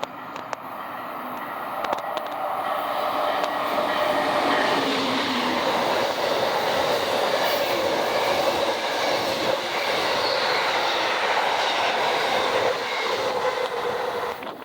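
Passenger train passing close by, a loud, steady rush of wheels on rail with faint humming tones. It builds over the first few seconds and cuts off sharply near the end.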